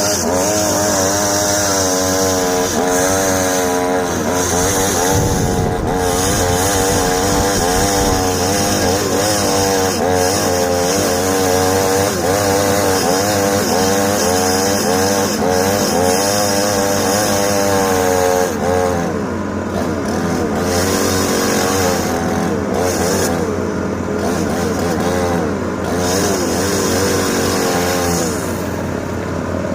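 Excavator's diesel engine and hydraulics running under load, the pitch wavering up and down as the machine works, with a few short knocks.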